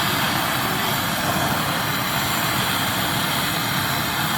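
Steady machine noise: a motor running under a loud, even hiss.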